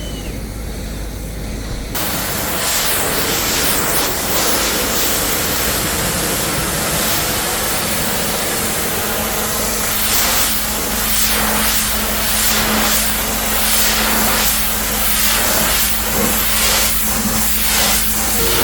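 High-pressure washer jet spraying water onto a vehicle: a steady, loud hiss over a constant low hum. The spray jumps louder and fuller about two seconds in.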